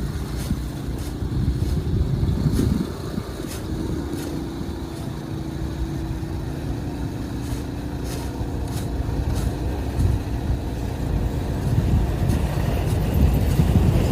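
A motor vehicle's engine running, a steady low rumble with scattered faint clicks.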